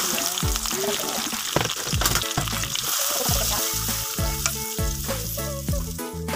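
Blended chilli, garlic and ginger paste sizzling as it is poured into hot oil in a wok, then stirred with a wooden spatula. The sizzle is strongest a couple of seconds in and eases toward the end, over background music.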